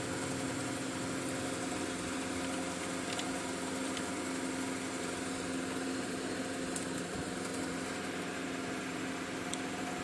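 Steady mechanical hum with a constant low tone and a few faint ticks.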